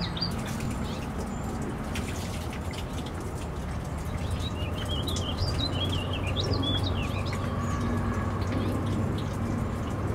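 A songbird singing a quick run of warbling, wavering notes in the middle, over a steady low background hum.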